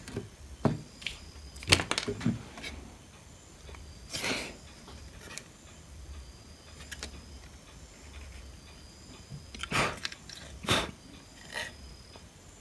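Scattered clicks, taps and short scraping noises of hand tools working on a circuit board, over a faint steady low hum.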